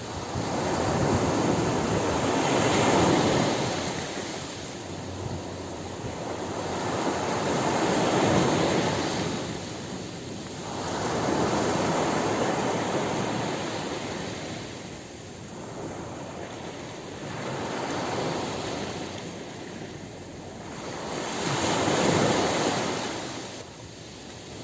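Ocean surf breaking on a beach, the wash of the waves swelling and fading in slow surges, about one every five seconds.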